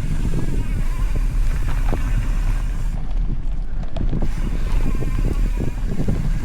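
Wind buffeting the camera microphone on a moving mountain bike, with a steady low rumble and frequent short knocks from the tyres and bike rattling over a dirt trail.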